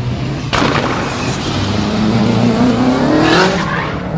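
Turbocharged EJ20 2.2-litre stroker flat-four of a Subaru Impreza WRX GC8 drift car revving hard, with tyres squealing. The sound jumps up suddenly about half a second in, climbs steadily in pitch, then drops off near the end.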